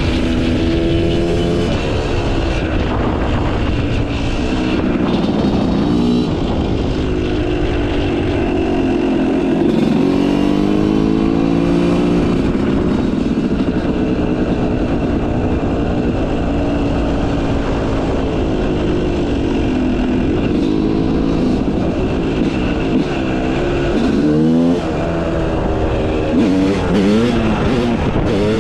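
Yamaha YZ250 two-stroke motocross bike with a Pro Circuit exhaust being ridden hard, its engine pitch climbing and falling again and again as the rider accelerates and shifts, with quick rev swings near the end.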